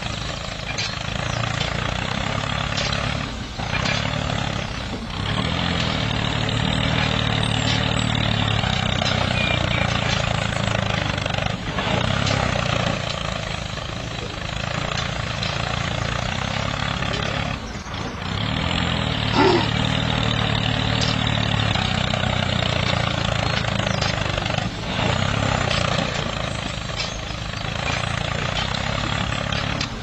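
Small motor of a miniature model tractor running steadily as it pulls a leveller blade through sand: a continuous mechanical drone with a low hum and gear noise above it, dipping briefly a few times.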